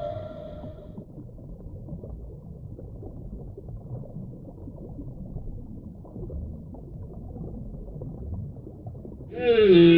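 Low underwater rumble and gurgle between whale calls. A whale's pitched moan fades out in the first second, and a new call starts near the end, gliding down in pitch and then holding steady.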